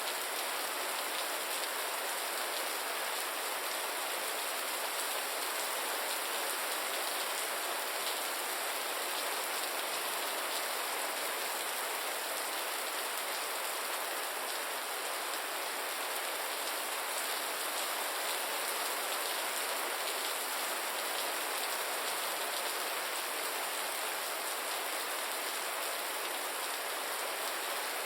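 Steady rain falling, a constant even hiss of many drops that does not change.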